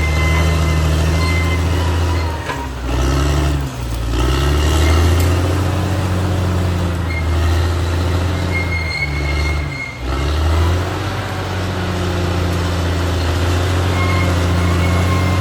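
Caterpillar D6R XL bulldozer's diesel engine running under load, its pitch sagging and recovering twice, about three seconds in and again near ten seconds, with a faint steady high whine over it.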